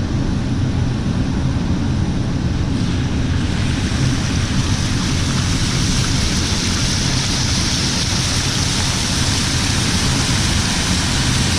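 A vehicle's engine running steadily under a loud, even rushing noise, which grows brighter about four seconds in.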